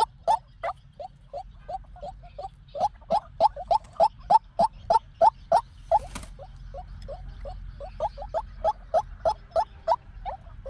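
White-breasted waterhen calling: a long run of short, harsh notes repeated about three to four times a second, slower at first and quicker from about three seconds in, with a brief rustle about six seconds in.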